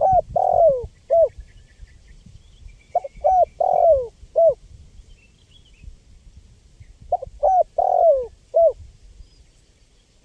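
Spotted dove (tekukur) cooing: three phrases of four or five short notes each, repeated about every three to four seconds. Faint chirps of small birds are heard behind it.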